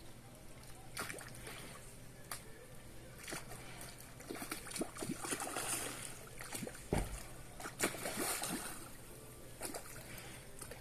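Water splashing in a small dam pond, in short irregular splashes and sloshes, with a heavier thump about seven seconds in.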